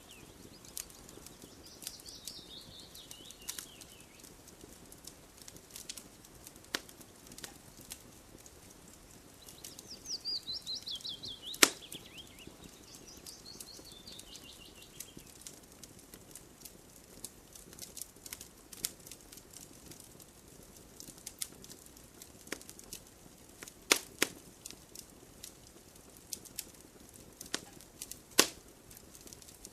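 Campfire crackling, with scattered sharp pops over a low hiss. A songbird sings falling, trilled phrases a few times in the first half.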